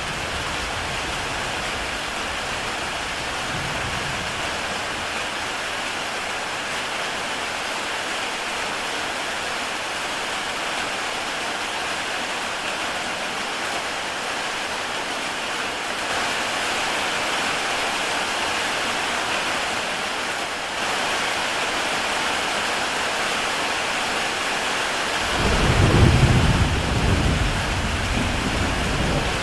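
Heavy rain pouring onto a tile roof, a steady dense hiss of drops. A low rumble swells and fades near the end.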